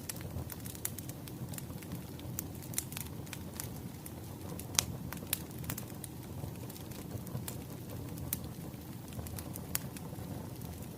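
Wood fire crackling: irregular sharp pops and snaps over a low, steady rumble, with one louder pop a little before the middle.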